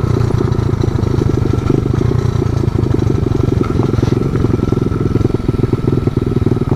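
Pit bike engine running steadily, with a fast, even firing pulse.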